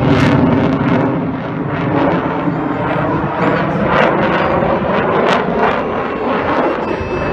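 Eurofighter Typhoon's twin Eurojet EJ200 jet engines heard loud in flight: a dense, rumbling jet noise with irregular sharp crackles, most frequent in the middle of the stretch.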